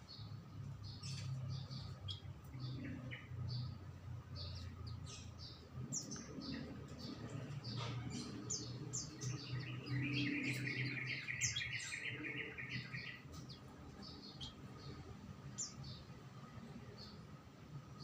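Small songbirds chirping with many short, high notes, with one bird giving a fast trill lasting about three seconds around ten seconds in.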